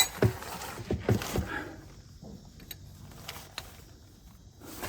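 A few sharp metallic clicks and knocks of a wrench working against a seized nut that refuses to turn, loudest in the first second and a half, then a few faint ticks.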